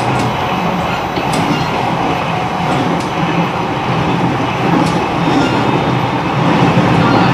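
Running sound of an E129 series electric train heard inside its motor car: a steady rumble of wheels on rail, with a few sharp clicks from rail joints.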